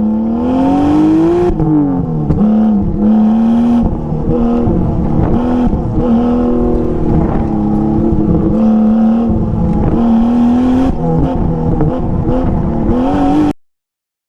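Toyota Supra Mk3's turbocharged 7M-GE straight-six through an HKS catback exhaust with the muffler deleted. The revs climb, drop about two seconds in, hold fairly steady, then rise again near the end before the sound cuts off.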